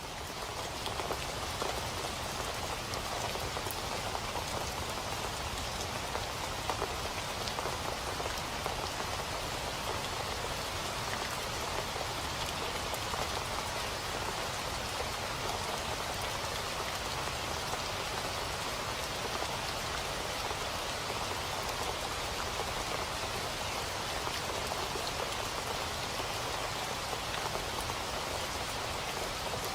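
Steady rain falling on a surface, an even patter of many drops that holds level throughout.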